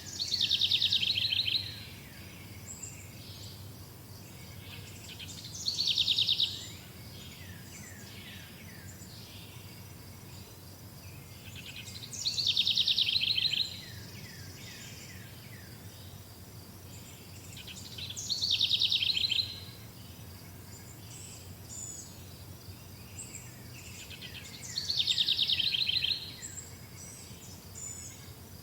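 A songbird singing the same short song five times, about every six seconds: each phrase is a fast trill that drops in pitch and ends on a few lower down-slurred notes. Faint high chirping runs steadily underneath.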